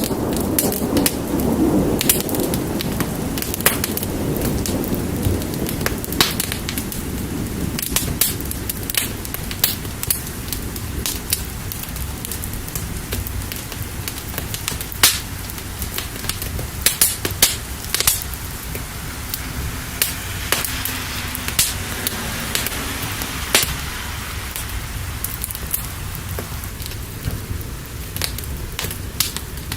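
Wood fire crackling with frequent sharp pops over a steady hiss of rain. A low rumble of thunder fades out over the first few seconds.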